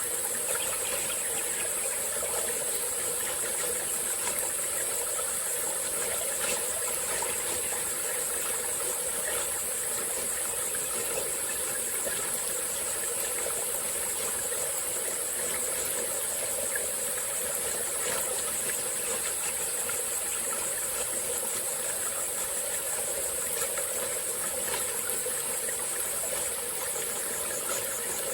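A small forest stream running steadily, its even rush of water under a loud, unbroken high-pitched chorus of insects.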